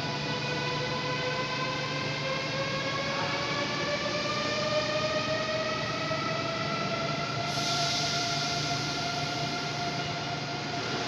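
Electric train's traction motors whining, the pitch rising slowly and steadily as the train gathers speed, with a hiss starting about seven seconds in.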